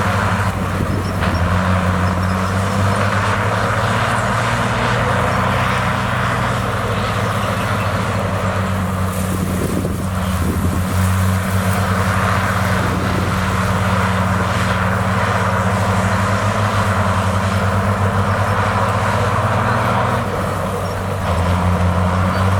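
Heavy diesel engine of earthmoving machinery running steadily under work. Its engine note eases off briefly near the end and then picks up again.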